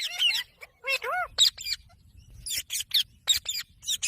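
Ringneck parakeet making a string of short, high-pitched calls and chattering squawks, some with a rising-then-falling pitch, coming faster in the second half.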